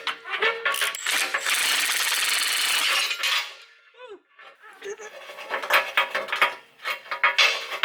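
Hand tools clinking and scraping on metal during exhaust work, with a dense steady rasping for about two seconds early on, then scattered clinks.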